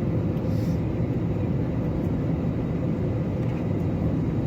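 Steady low rumble of an airliner's jet engines and rushing air, heard from inside the passenger cabin during the landing approach.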